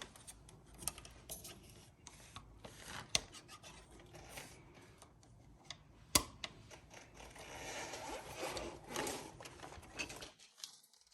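Handling and prying plastic cable clips off an e-bike frame: scattered small clicks, a sharper snap about three seconds in and another about six seconds in, and a stretch of rubbing and scraping around eight to nine seconds in.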